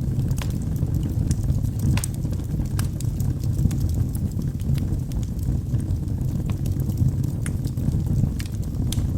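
Wood fire burning in a fireplace: a steady low rumble from the flames with scattered sharp crackles and pops from the burning logs.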